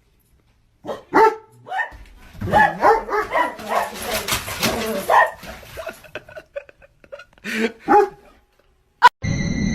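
A dog barking and yipping in runs of short calls, with a second short burst of barks near the end.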